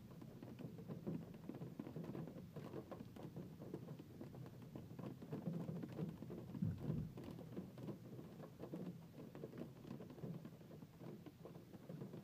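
Hailstones falling and hitting hard surfaces in a dense, continuous patter of small clicks, with one heavier knock about halfway through.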